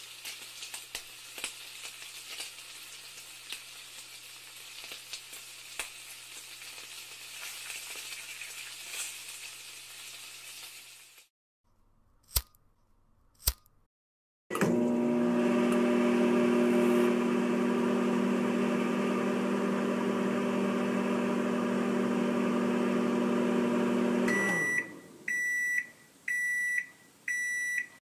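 A run of sound effects: about eleven seconds of crackling hiss, two sharp clicks, then a loud steady appliance hum for about ten seconds that stops and gives way to four short high beeps.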